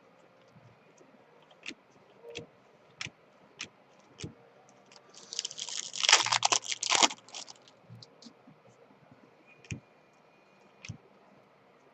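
Handling of trading cards and their packs: scattered light clicks and taps of cards, then about halfway a dense crinkling of a foil card-pack wrapper lasting about two seconds.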